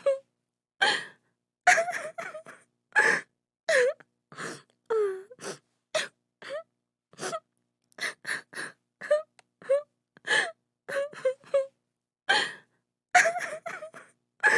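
A woman crying and sobbing: short broken wails with wavering, falling pitch, broken by sharp gasping breaths and brief silences, several a second.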